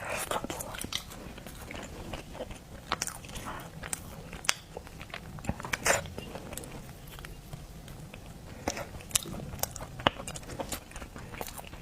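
Close-miked eating of seafood: irregular crunchy bites and wet chewing, with many sharp cracks and crackles.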